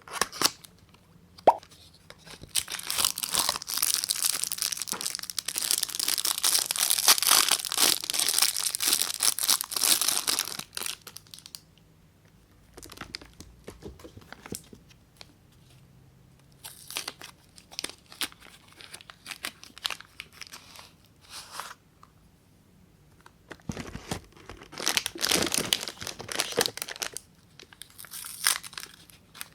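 Bar soap being unwrapped by hand: packaging tearing and crinkling in long crackly stretches, with shorter crackles and pauses between.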